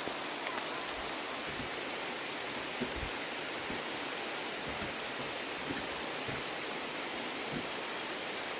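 Steady rain falling, an even hiss with a few soft knocks of drops now and then.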